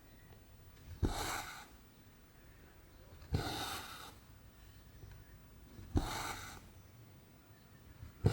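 Cross-stitch needle and cotton thread drawn through 14-count canvas: a short tap as the needle goes through, then a brief swish of thread pulled tight. This repeats about every two and a half seconds, four times.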